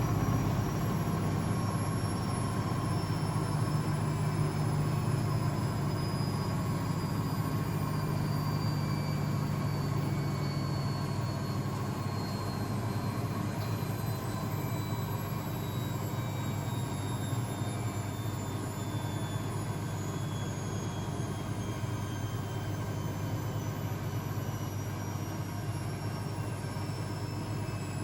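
Blomberg WAF 7442 SL washing machine spinning, with a motor whine that falls slowly and steadily in pitch as the drum slows down and the spin winds down.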